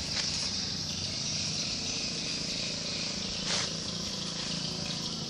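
A vehicle engine running steadily at idle, with a constant high hiss over it and one short burst of noise about three and a half seconds in.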